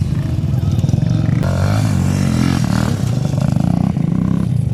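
Motocross dirt bike engines running and revving, with a fast pulsing exhaust note.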